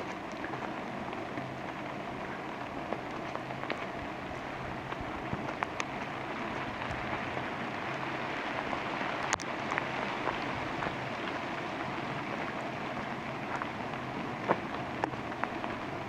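Steady rain falling through the forest, with scattered sharper taps of single drops close by and one louder click about nine seconds in.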